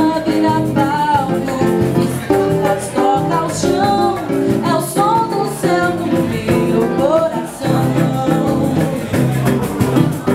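Song: a voice singing a gliding melody over instrumental accompaniment with guitar.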